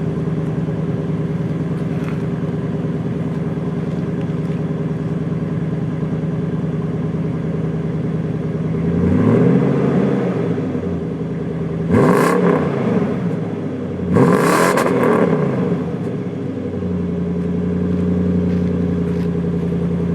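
2004 Toyota Sequoia's 4.7-litre V8 idling steadily through a Borla Pro XS muffler with its end baffle cut off, revved three times in quick succession in the middle, each rev rising and falling back, then settling to idle again. The exhaust note is clean and not choppy, without a gurgle.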